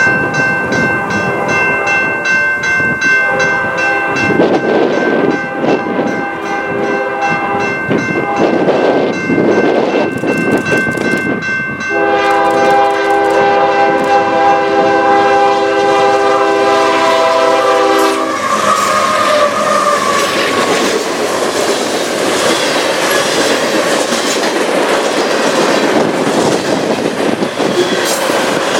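A train's air horn sounds a steady chord. About twelve seconds in it switches to a lower, louder chord that stops about six seconds later. The train then rolls past, its wheels clacking rhythmically over the rail joints.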